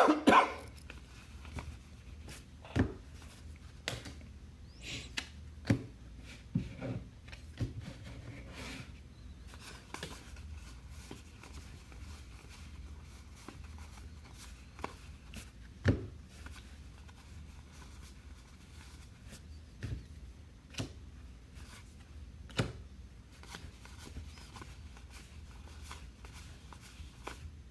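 Trading card packs and cards being handled: scattered rustles, taps and clicks as packs are opened and cards sorted, with a louder clatter at the very start.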